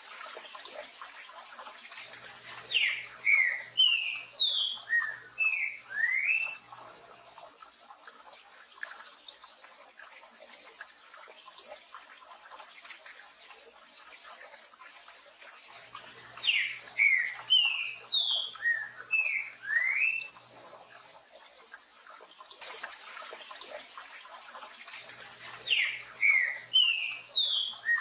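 Green-winged saltator (trinca-ferro) singing its 'tio João Pedro boi' phrase three times, each a quick run of about seven or eight clear whistled notes, over a steady hiss of rain.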